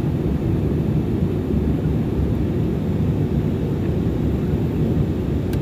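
Airliner taking off: a steady low rumble of jet engines.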